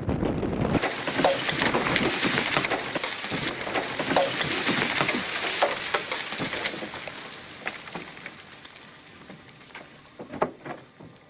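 A dense crackling hiss with scattered sharp clicks, like rain or sizzling. It starts abruptly about a second in, after a low wind-like rumble cuts off, and fades away over the last few seconds.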